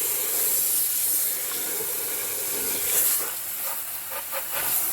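Garden hose nozzle hissing as a spray of water is played over a lawn tractor under its hood covers. The spray turns uneven and spluttery in the second half.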